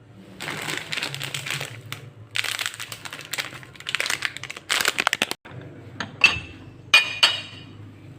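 Crinkling and rustling handled in four bursts, then three sharp clinks with a brief ring in the last few seconds.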